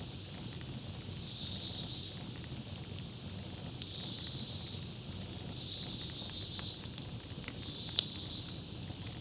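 Campfire crackling with scattered sharp pops, one loud pop about eight seconds in, over a low steady rush of flame. A high trilling bird call repeats about every two seconds.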